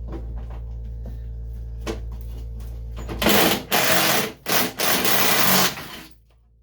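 Cordless impact wrench hammering on a bumper bolt in two loud bursts, about three seconds in, with a short break between them. Before the bursts there are only faint clicks over a low steady hum.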